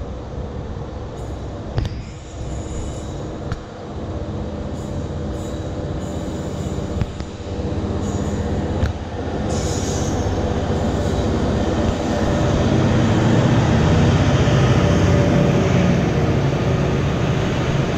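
SCT class diesel-electric locomotive SCT001 hauling a freight train: its engine working under load, growing louder as it approaches and passes close about twelve seconds in, followed by the container and tank wagons rolling by.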